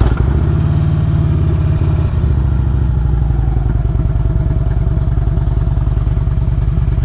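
Harley-Davidson Road King Classic's Twin Cam 96 V-twin idling steadily with a loud, even pulse, just after being started. The exhaust is loud enough to be heard through headphones.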